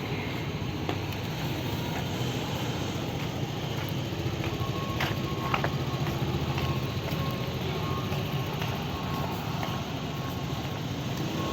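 City street traffic: the steady rumble of cars and engines passing through the intersection, with a thin steady high tone joining about a third of the way in and a couple of sharp clicks soon after.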